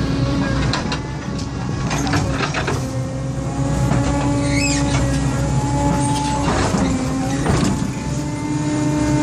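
Excavator's diesel engine running steadily under work, its pitch shifting slightly, with several metallic clanks and knocks from the machine and a short high squeak about halfway through.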